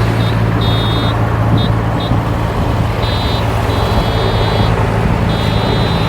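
Heavy diesel machinery engine running steadily, with a high-pitched electronic beeping that sounds in uneven on-off stretches, like a reversing alarm.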